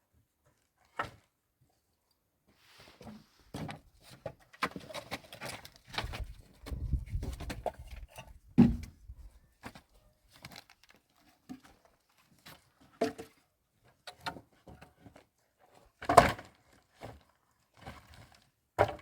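Irregular knocks and thumps of things being handled and set down, a scattered series with a few louder strikes, the loudest about two-thirds of the way through.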